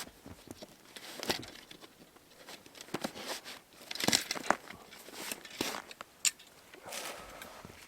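Irregular rustling and crinkling with small sharp clicks, as of camping gear being handled.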